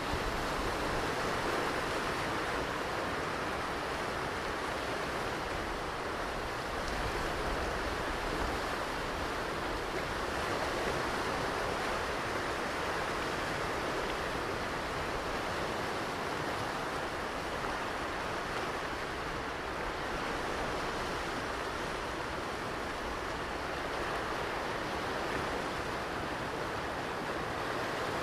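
Ocean surf washing onto a beach: a steady rush of breaking waves that swells and eases gently, with no single distinct crash.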